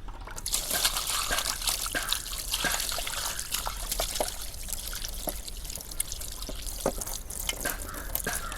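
Water trickling and splashing with small irregular knocks, as raw chicken is washed by hand.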